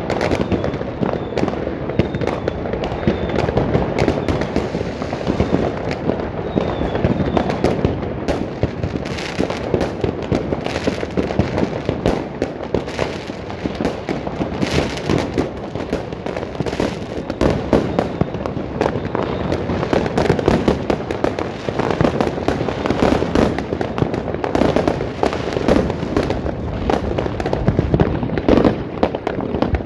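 New Year's Eve fireworks and firecrackers going off all around without a break: a dense, steady mass of overlapping bangs and crackling.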